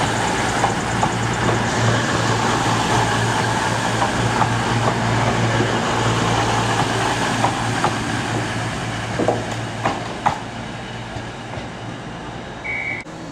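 Class 221 Voyager diesel multiple unit arriving, its underfloor diesel engines running with a steady low hum over the rumble of the train, slowly getting quieter. A few sharp clicks come late on, then a brief high beep near the end.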